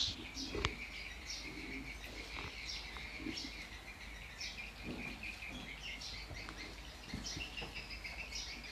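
Small birds chirping repeatedly in the background, many short calls throughout. A single knock about half a second in comes from a microphone stand being set down on the table.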